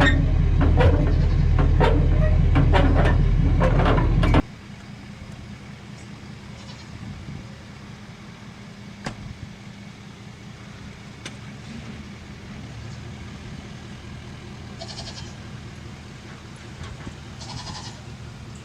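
A vehicle engine running with loud rattling for the first four seconds, then cutting off suddenly; after that a quiet outdoor background with goats bleating a few times near the end.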